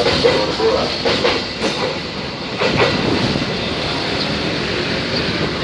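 Container freight train's empty flatcars rolling past, wheels clacking over the rail joints in the first few seconds. The sound eases a little about two seconds in as the last wagon moves off.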